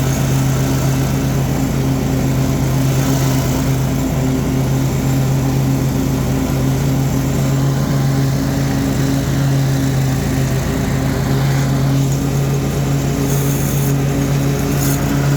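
Toro Titan ZX4800 zero-turn mower's engine running steadily at high throttle with the blades engaged, mowing tall grass; a constant low hum.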